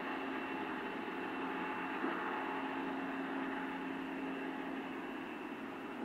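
Distant electric S-Bahn train running, heard as a steady hum with several held tones over a hiss, slowly fading.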